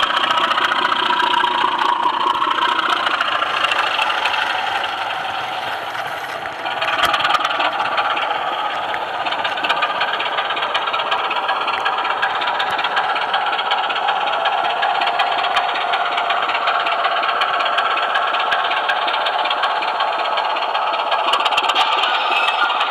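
Model train running along the track heard close up, a steady whirr and rattle of the motor and wheels. The sound dips briefly, then changes sharply about six and a half seconds in.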